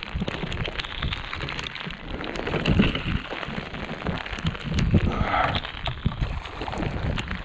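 Steady rain falling on the river and the boat, with many sharp drop ticks close to the microphone.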